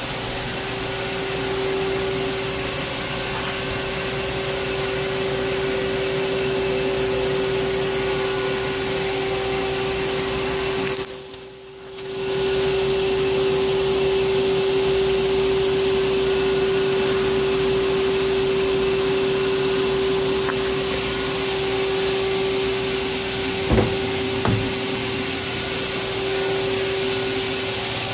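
Haas SL20 CNC lathe running, a steady whirring hum with a constant tone through it. The sound drops away for about a second near the middle and comes back a little louder, with two short clicks later on.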